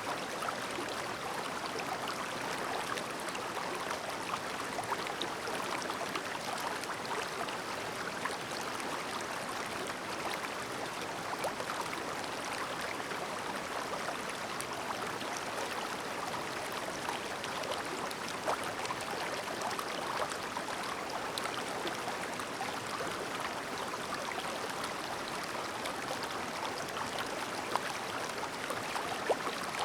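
Clear, shallow mountain river babbling over stones: a steady water rush with many small trickles and splashes, and a few slightly louder splashes near the end.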